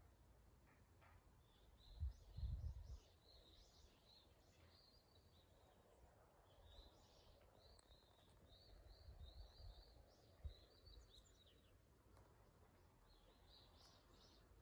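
Faint outdoor birdsong: a small bird repeating strings of short, quick high chirps. A low rumble of wind buffeting the microphone comes about two seconds in.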